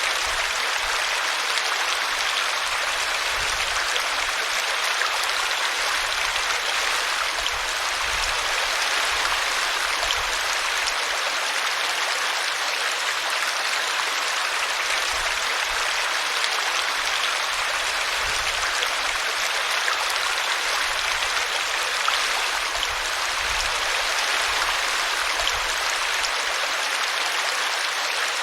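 Small brook running over a tree root: a steady rush of water.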